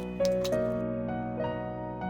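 Background music: soft piano playing a slow melody, a new note every half second or so.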